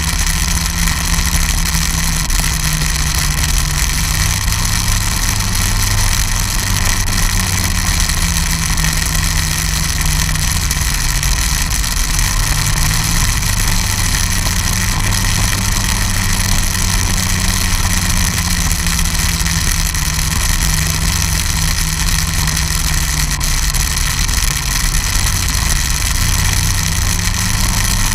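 Snowmobile engine running steadily, its pitch dipping and rising again about halfway through.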